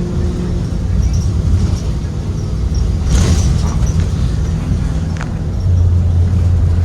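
Interior ride sound of a 2023 Blue Bird Vision school bus with a Ford 7.3L V8 engine: steady low engine and road rumble. A brief rush of noise comes about three seconds in, a click shortly after five seconds, and a deeper, steadier drone sets in near the end.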